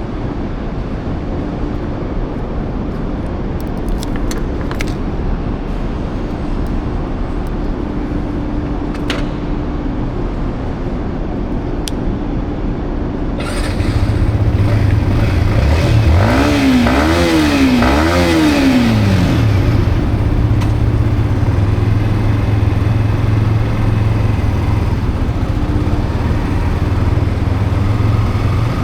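Yamaha MT-15's single-cylinder engine with rain and wet-road noise: a steady running sound at first, then about halfway it gets louder and the engine revs up and drops back three times in quick succession as the bike accelerates up through the gears, then settles into a steady cruising drone over the tyre hiss.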